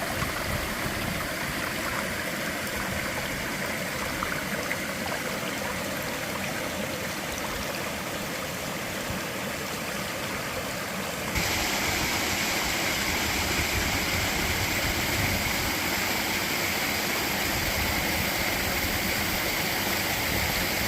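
Mountain stream water rushing and gurgling steadily over rocks. About eleven seconds in it abruptly becomes louder and brighter, as if heard from closer to the flow.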